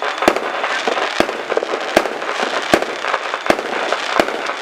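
Fireworks going off in quick succession: a sharp bang about every three-quarters of a second over continuous crackling.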